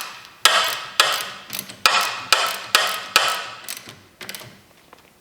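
Socket ratchet clicking in repeated strokes, about two a second, as a 9/16 hydraulic hose fitting on a landing-gear cylinder is run in; the strokes stop about four and a half seconds in.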